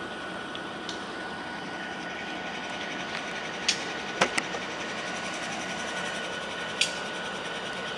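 CSX maintenance-of-way work train running on the track: a steady running noise with a faint steady high whine, broken by a few sharp clanks, two in quick succession about four seconds in and another near the end.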